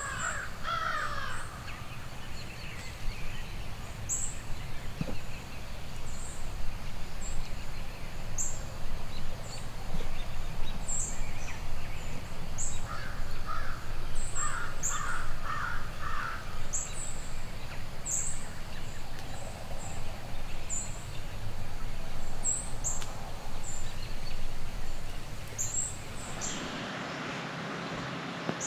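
Birds calling outdoors: thin, high chirps repeat about once a second throughout, and a quick series of about six harsh calls comes midway. A steady low rumble of wind lies under them.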